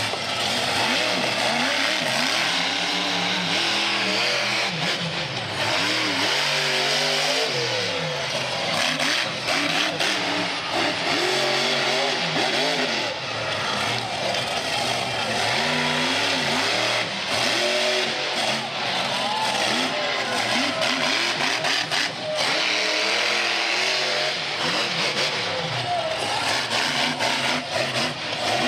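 Monster truck engine revving up and down again and again.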